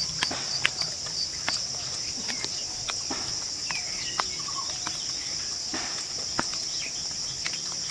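Steady high-pitched chorus of forest insects, crickets or cicadas, with scattered sharp clicks and snaps over it.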